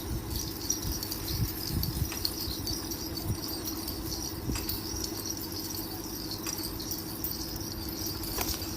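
Steady background with a low hum and a high, even buzz like insects, with a few faint scattered taps.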